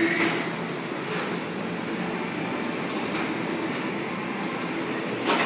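Curd mill running steadily, chopping slabs of cheddar curd into small pieces, with a brief high squeal about two seconds in and a knock near the end.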